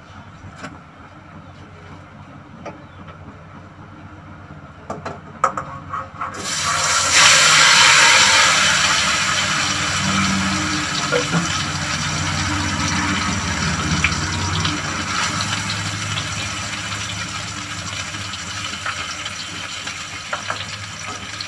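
Boiled eggs and potato chunks, coated in turmeric and salt, sizzling in hot mustard oil in a kadai. A few light knocks as they go in, then the sizzle starts suddenly about six seconds in, is loudest just after, and slowly eases as it settles into steady frying.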